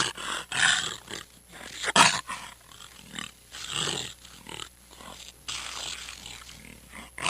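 Jaguar roaring: a series of hoarse, rasping calls, the loudest about two seconds in.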